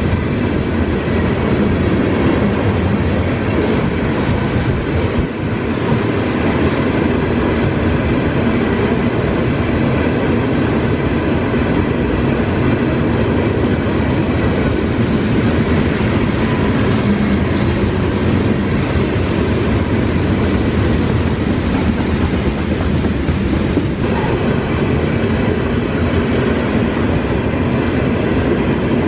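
Freight train rolling past, a steady, unbroken rumble of wheels on rail.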